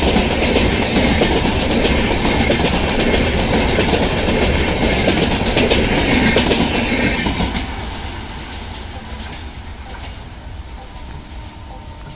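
Passenger train of LHB coaches passing close at high speed on a curve, its wheels running over the rails with rapid clicks. About seven and a half seconds in the last coach goes by and the sound drops to a fading rumble as the train moves away.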